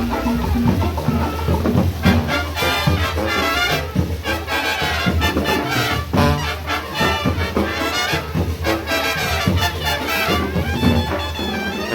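Marching band playing, with brass and drums over a steady beat.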